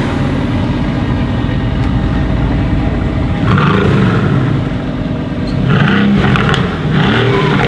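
Mercedes-AMG GT R's twin-turbo V8 running, then revved three times in the second half, each rev rising and falling in pitch.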